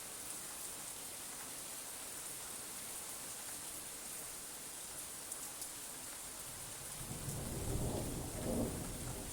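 Steady rainfall hissing, with a low roll of thunder building about two-thirds of the way in and peaking near the end.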